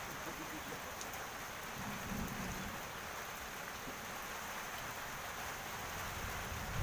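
Steady rain falling, an even hiss on wet ground and puddles.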